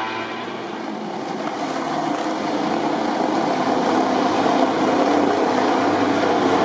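MotoGP prototype motorcycle's four-cylinder engine running at a fairly steady pitch, getting steadily louder.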